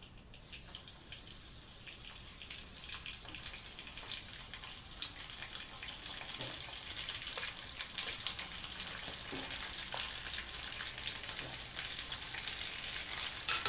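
Chicken pieces frying in hot coconut oil in a pan: a steady sizzle full of small crackles that starts about half a second in and grows gradually louder.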